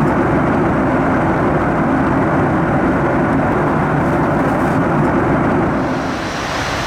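Steady rush of a Boeing 737 MAX 8 airliner in flight, engine and airflow noise blended into an even roar, its tone shifting slightly about six seconds in.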